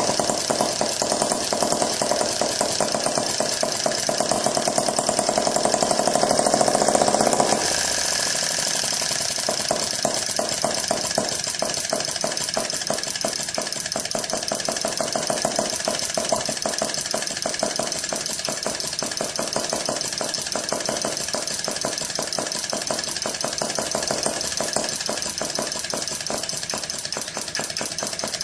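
Classic 1S gas engine running with a rapid, even train of firing beats. About seven and a half seconds in, the sound abruptly gets a little quieter and changes in tone, then runs on steadily.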